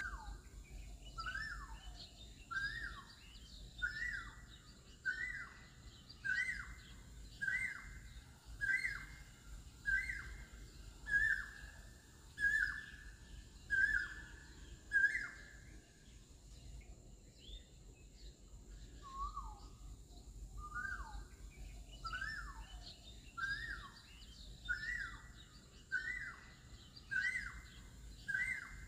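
A bird calling over and over, one short downward-sliding whistled note about every second and a half, with a pause of a few seconds about halfway through.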